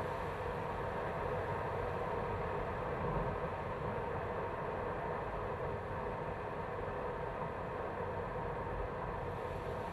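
BMW B48 2.0-litre turbocharged four-cylinder engine running steadily, heard up close from inside the engine bay, with an even hum and no revving.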